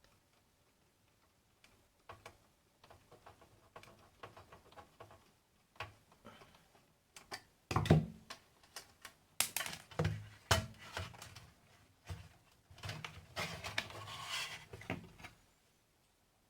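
Clicks, knocks and scraping from handling a satellite receiver's metal case as it is opened. The loudest knocks come about halfway through, and a stretch of scraping follows near the end.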